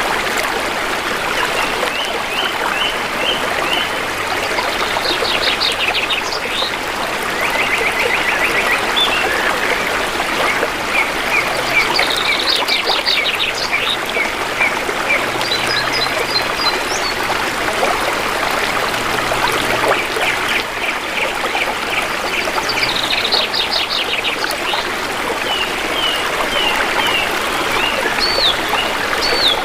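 Shallow river water flowing and trickling steadily, with forest birds calling over it: a fast trill that comes three times and runs of short chirps.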